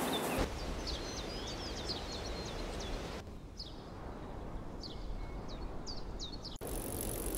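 Small birds chirping in quick runs of short, high notes over a steady outdoor background hiss. The background changes abruptly twice.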